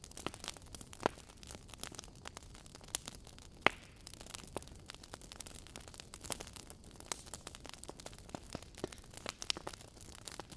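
Wood fire in a fireplace crackling: irregular sharp pops and snaps from burning logs over a faint steady hiss, with one louder pop a little past a third of the way in.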